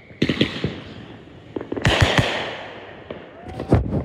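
Aerial fireworks bursting overhead: several sharp bangs in quick clusters, with a fading crackle and hiss after each. The loudest pair of bangs comes about two seconds in.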